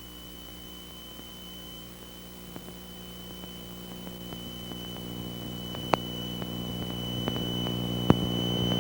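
Piper Seneca twin-engine cabin drone as heard over the intercom recording: a steady, even hum from the engines and propellers with a thin high whine above it, gradually growing louder. Two sharp clicks come about six and eight seconds in.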